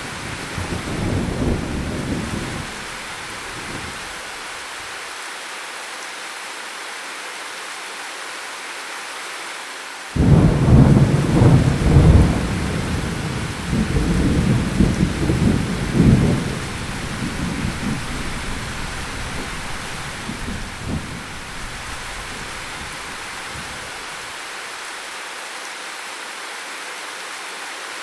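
Steady rain with thunder: a rumble dying away in the first few seconds, then a sudden loud thunderclap about ten seconds in that rolls on for several seconds before fading.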